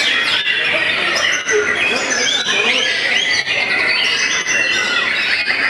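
Several caged white-rumped shamas (murai batu) singing at once in a contest, a dense tangle of overlapping whistles, trills and chattering phrases.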